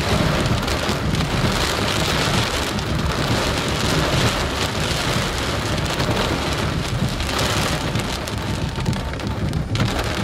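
Heavy storm rain falling steadily, a dense hiss with a continuous low rumble underneath.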